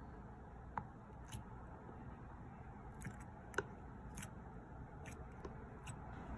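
Pink slime being squished and pressed by hand, giving scattered small sticky clicks and pops over a faint hiss; the sharpest pop comes about three and a half seconds in.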